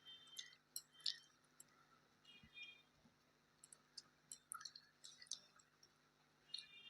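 Faint, scattered clicks and smacks of someone eating: mouth and chewing sounds, with a few brief high squeaks, at an irregular pace.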